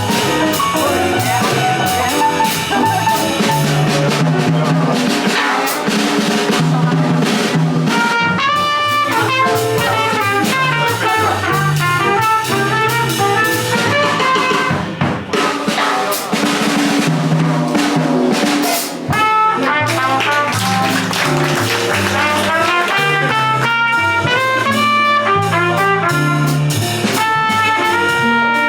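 Live jazz combo playing: a horn carrying a melodic line over drum kit and bass.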